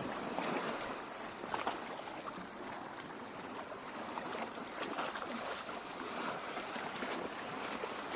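Lake water lapping at the shore: a continuous gentle wash dotted with many small splashes and trickles.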